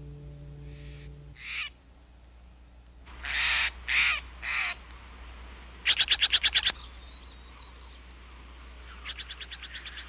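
Wild birds calling: a couple of faint calls, then three loud calls about half a second apart, then a quick rattling run of about a dozen strokes, with a fainter rattle near the end.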